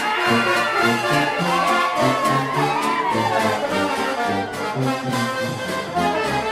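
Background music from a live brass band, a trombone and trumpet carrying the tune over a steady bouncing bass line.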